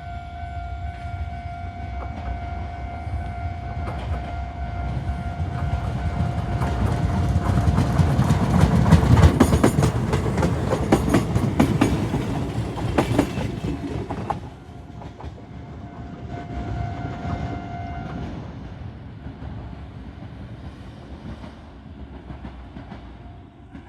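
Yoro Railway 600-series train pulling out and running past, its wheels clicking over the rail joints, loudest about eight to thirteen seconds in, then dropping away. A steady high electronic tone sounds at the start and again briefly later on.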